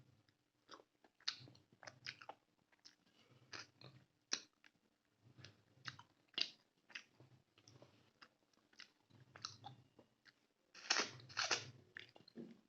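Close-miked chewing of rice with chicken gravy: irregular wet mouth smacks and clicks, with a louder burst of smacking near the end.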